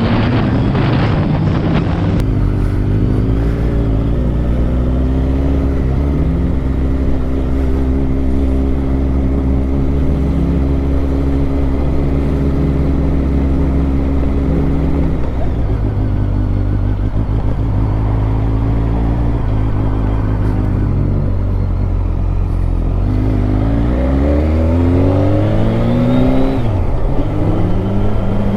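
Motorcycle engine running steadily under way, its pitch holding for most of the time. Near the end the revs climb, then drop suddenly.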